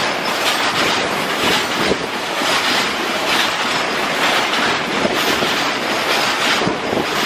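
A freight train's BTPGLN rake of bogie tank wagons rolling past close by at speed. Steel wheels on rail make a loud, steady rushing noise, with recurring clicks as the wheelsets pass.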